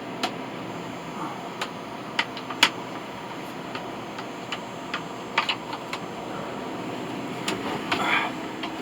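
Electric fan running steadily, with a dozen or so sharp, irregular clicks and light knocks over it, the loudest about two and a half seconds in and a short cluster near the end.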